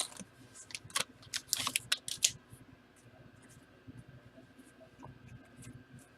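Irregular light clicks and taps, a quick cluster in the first two seconds or so, then only a few faint ticks.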